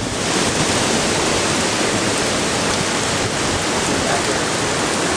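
Hurricane winds of about 70 miles an hour blowing against the camcorder's microphone: a steady, dense rushing noise.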